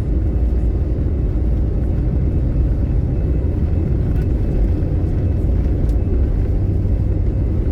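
Steady low rumble of an Airbus A320 heard from inside the passenger cabin: engine and airflow noise.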